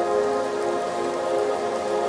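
Steady rain pattering, under slow ambient music with long held tones.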